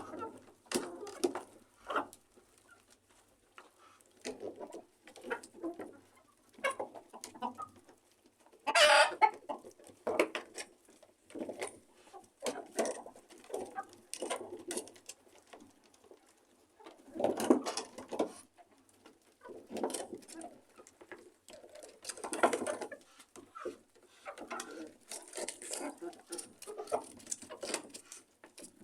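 A flock of domestic birds calling in their room: many short, scattered calls, with a few louder, longer calls about nine seconds in and twice later on.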